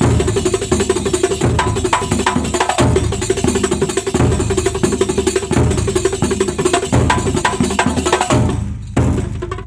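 Kuntulan percussion ensemble playing: hand drums and frame drums beating a fast, dense, driving rhythm. The playing thins out briefly near the end, then picks up again.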